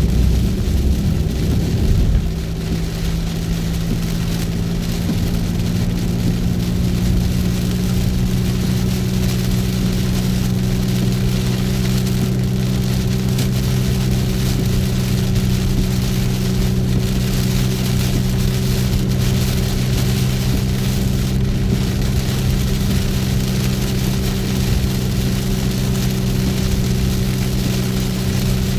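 Heavy rain on a car driving down the highway, a steady wash of rain and road noise under a constant low hum from the vehicle. A louder low rumble drops away about two seconds in.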